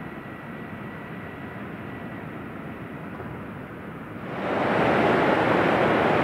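Pacific Ocean surf washing onto the beach: a low steady rush that turns much louder and fuller about four seconds in.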